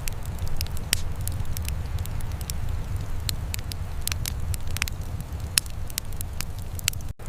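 Wood fire in a fireplace crackling, with irregular sharp pops several times a second over a steady low rumble. The sound cuts out for a split second near the end.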